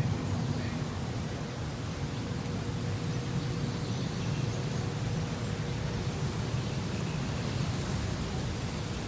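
Steady low rumble of distant city traffic, with a few faint high bird chirps over it.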